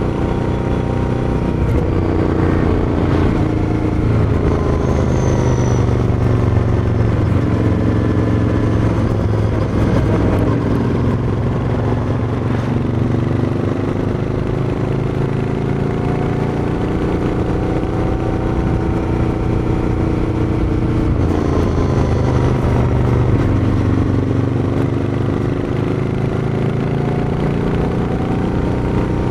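Royal Enfield Interceptor 650's 648 cc parallel-twin engine and exhaust running throughout. The engine pitch repeatedly climbs and drops, with clear changes about ten and twenty-one seconds in.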